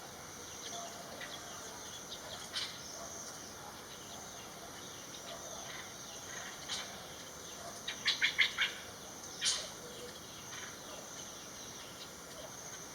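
Ashy drongo calling: a single sharp note about two and a half seconds in, then a quick run of about five notes around eight seconds in and one more a second later, over a steady high insect drone.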